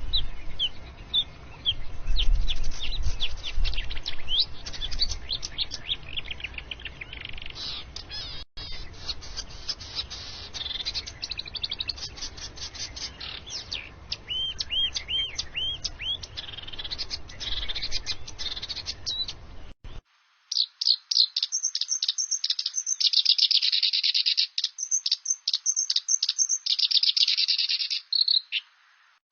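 Songbirds calling and singing in a series of separate recordings: quick chirps, short rising and falling whistles and repeated notes over low background noise. About two-thirds of the way through, it switches to a cleaner recording of fast, dense chirping and trills.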